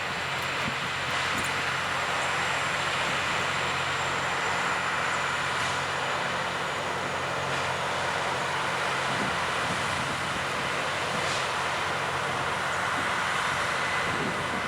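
LORAM rail grinder at work: the steady, harsh hiss of its grindstones on the rail over the steady hum of its engines.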